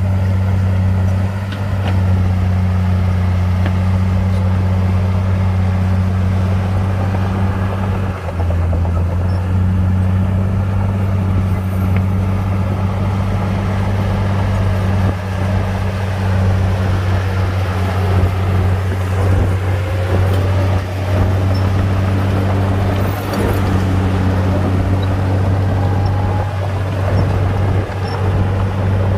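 Heavy diesel earthmoving machinery running steadily under load, a deep constant engine hum, with faint rising whines partway through.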